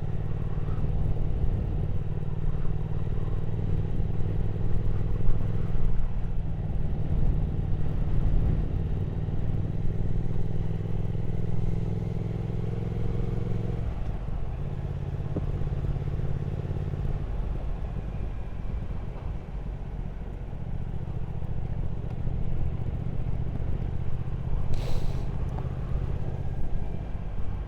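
Triumph Speed Twin 1200's parallel-twin engine running steadily at cruising speed, with wind and road noise. The engine note eases off about halfway through and picks up again a few seconds later. There is one short sharp click near the end.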